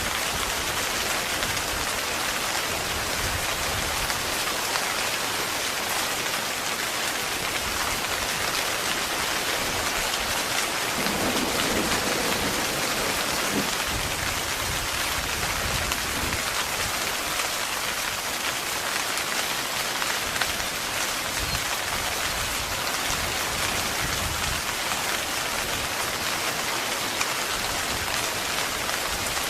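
Heavy steady rain pattering on a tent's fabric, an even hiss without a break. A brief low rumble swells under it about eleven seconds in.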